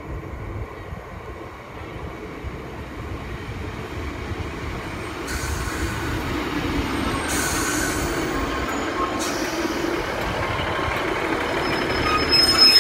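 British Rail Class 150 diesel multiple unit (150261) running into a station platform, its diesel engine and wheels growing steadily louder as it comes close and slows. A high squeal of the wheels and brakes sets in near the end as it brakes to a stop.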